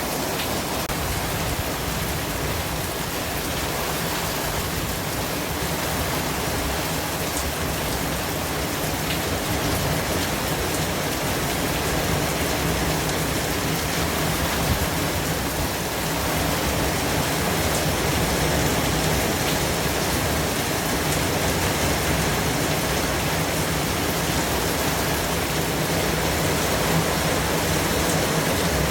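White-noise track: a steady, even hiss spread across all pitches, with a few faint ticks.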